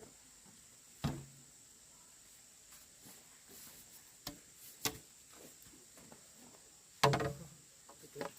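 Five sharp knocks at irregular intervals, the loudest about seven seconds in, over a faint steady high-pitched hum.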